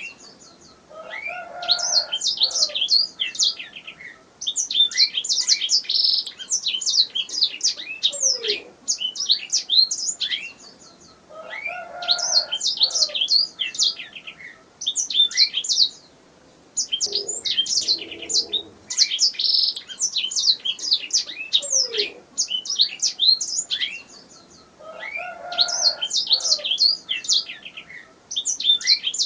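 Domestic canary singing: long phrases of rapid, high trills and sweeping notes, separated by short pauses of about a second.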